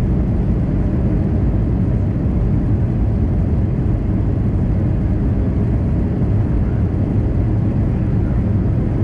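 Steady in-flight cabin noise of an Airbus A320 airliner: a low, even rush without changes.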